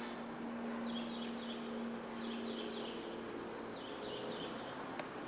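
Quiet background hiss with a steady low hum, and faint short high chirps in a few brief clusters. A single sharp click comes near the end.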